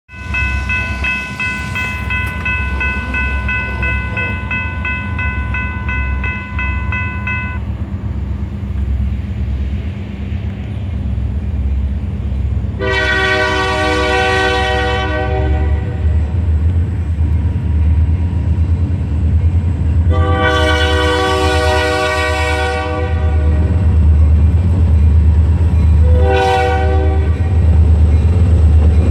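EMD SD40-2 diesel locomotives running with a steady low rumble as the lead unit sounds its air horn in the grade-crossing pattern: two long blasts, one short, and a fourth long one starting at the end. A steady high tone is heard for about the first seven seconds before the horn.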